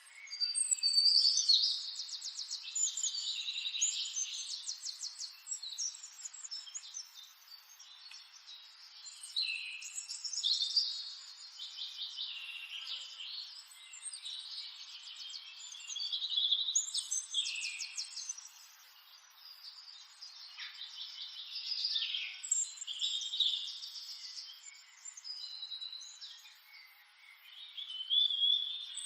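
Songbirds singing in repeated bouts of rapid trills and chirps every few seconds, high-pitched, over a faint background hiss.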